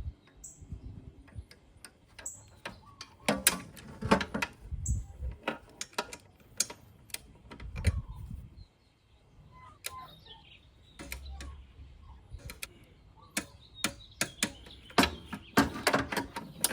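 Scattered sharp clicks and knocks at irregular intervals, with a few dull thuds, as of hands working with tools and parts.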